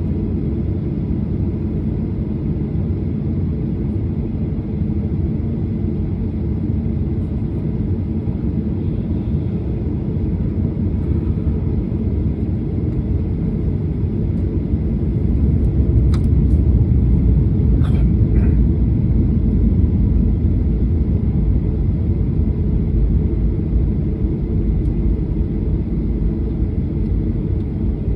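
Steady low rumble of an airliner's jet engines heard inside the passenger cabin while the plane waits or taxis before takeoff. It swells slightly about halfway through, with a couple of faint clicks.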